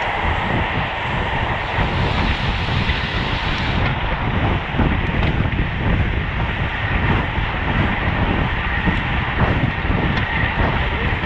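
Rushing wind on a racing bicycle's onboard camera microphone at speed, with tyre and road rumble.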